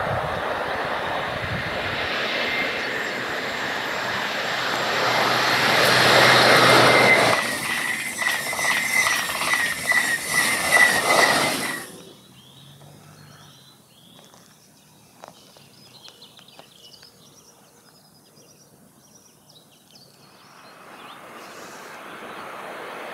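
A double-deck TGV high-speed train passing at speed: a rushing noise that builds to a peak, then fluctuates with a pulsing high whine as the cars go by, and cuts off suddenly about twelve seconds in. A quiet stretch follows, and near the end the noise of another train approaching rises again.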